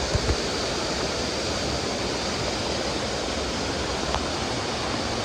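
Steady rush of a mountain stream cascading over boulders, with two soft low bumps right at the start.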